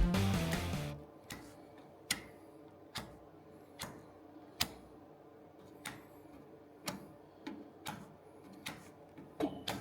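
Guitar music stops about a second in. Then come sharp, light clicks or taps, roughly one a second, over quiet room tone.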